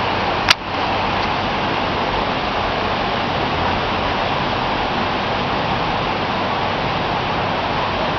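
Steady rushing hiss of a rainstorm over the city, with one sharp click about half a second in.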